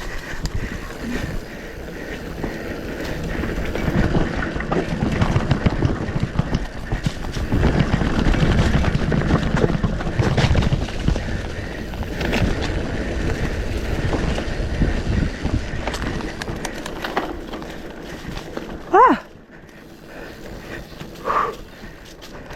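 Mountain bike riding over a rough dirt trail: a steady rumble of tyres and rattling frame and parts with frequent small knocks, rising and falling with speed, with wind on the microphone. About three-quarters of the way through there is a short, loud rising squeal, followed by a shorter, fainter squeal.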